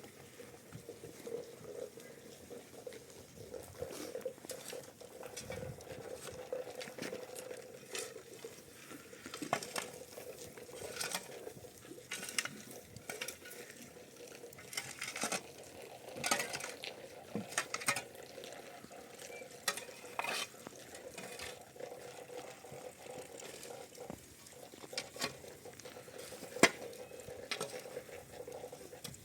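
Scattered clinks and scrapes of metal utensils against pots and dishes, as in stirring or handling cookware, over a faint steady hum.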